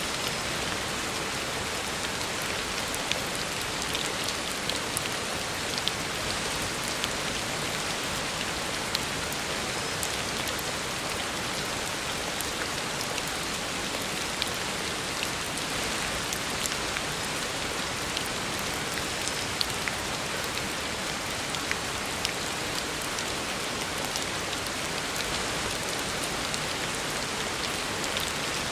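Heavy rain falling steadily onto a road, an even hiss with many individual drops ticking through it.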